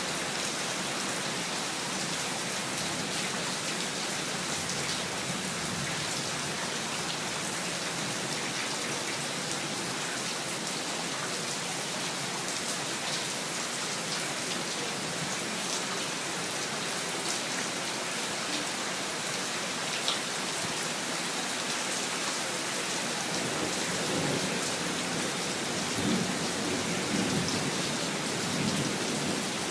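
Steady heavy rain hissing on surfaces. In the last several seconds a low rumble of thunder swells up and fades.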